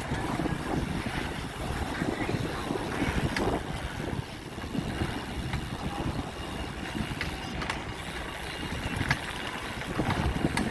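Wind buffeting the microphone and road noise while riding a bicycle: an unsteady low rumble with a few light clicks.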